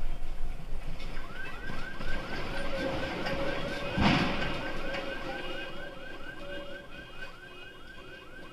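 Electronic alarm sounding, a chirp that repeats about four times a second, with a loud thud about four seconds in.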